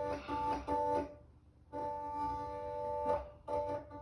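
Atlantis pinball machine's sound system giving out a steady organ-like chord that keeps cutting in and out: three quick stutters, a short dropout, a longer held stretch, then another brief burst. This is the machine's sound fault.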